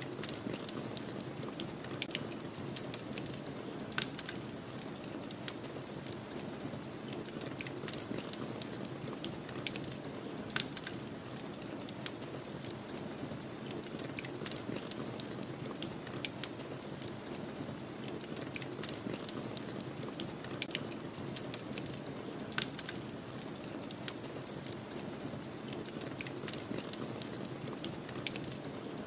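Wood fire crackling, with irregular sharp pops and snaps, over a steady low rush of snowstorm wind.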